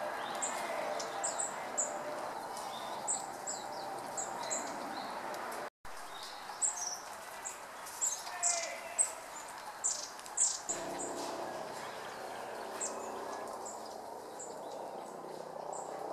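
Red-billed leiothrix calling: many short, high chirps scattered through, over steady background noise, with a brief cut in the sound a little before the middle.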